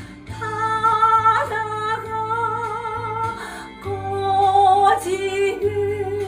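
A woman singing a slow song with vibrato on long held notes over an instrumental backing track with a steady bass; two sung phrases with a short break between them, a little past halfway through.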